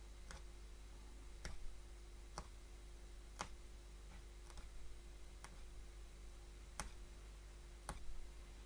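Hollow punchcraft needle punching thread through woven cloth, a faint sharp click with each stroke, about one a second at an uneven pace.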